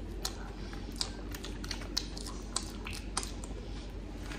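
A man eating crispy chicken wings close to the microphone, smacking his lips as he chews: irregular wet smacks and clicks, two or three a second.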